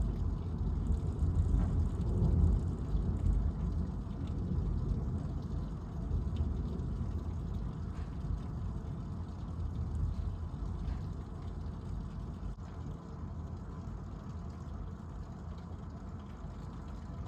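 Low rolling rumble of thunder, loudest in the first few seconds and then slowly dying away to a lower steady rumble.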